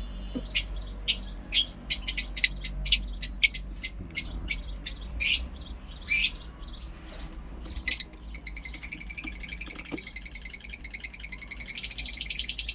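Lovebirds chirping: many short, sharp calls at first, then from about two-thirds in a fast, even chattering trill that grows louder toward the end.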